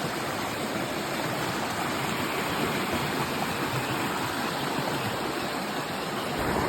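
Running water, a steady rush with no break.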